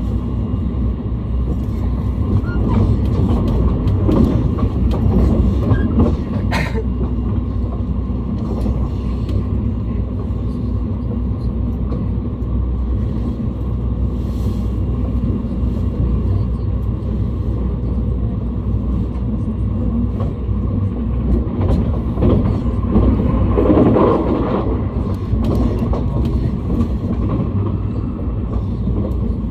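JR East passenger train running along the track, heard from inside the carriage: a steady low rumble of wheels on rails. It swells twice, and there is one sharp click about seven seconds in.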